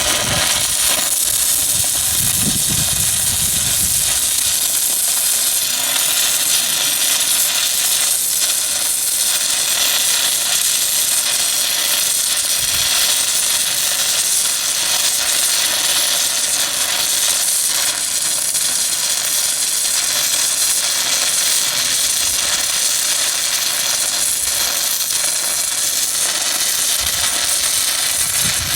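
DC stick-welding arc of a 1/8-inch 6010 electrode run at 85 amps with 65% dig on a Miller Syncrowave 210, burning a continuous bead on quarter-inch steel plate. It is a steady hiss, struck right at the start and held without a break.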